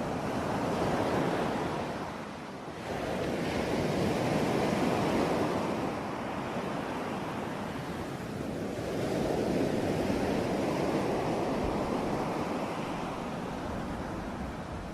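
Sea waves washing ashore, a rushing noise that swells and ebbs every few seconds.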